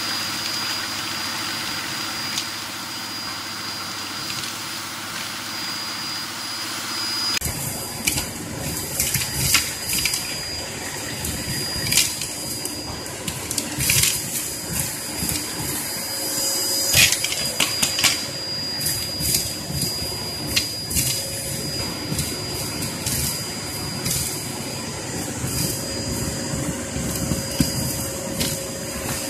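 Hoover Performer Pet upright vacuum cleaner running with a steady high motor whine. About seven seconds in, the sound turns fuller and irregular sharp clicks and crackles begin as it sucks up fireplace ash and bits of cinder, which rattle through the machine into its cyclone bin.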